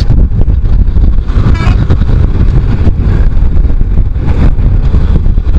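Wind rumbling loudly on a motorcycle rider's microphone, mixed with motorcycle engine and road noise at riding speed.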